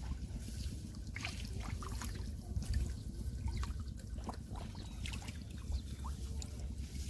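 Shallow muddy water splashing and sloshing, with irregular small sharp splashes and trickles over a low rumble.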